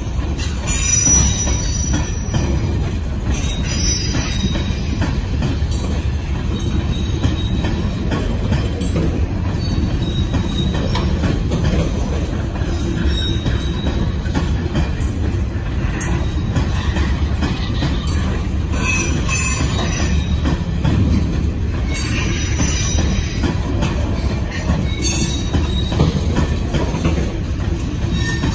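A string of loaded aggregate hopper cars from a rock train rolling past, their steel wheels giving a steady rumble on the rail. Brief high-pitched wheel squeals break in several times.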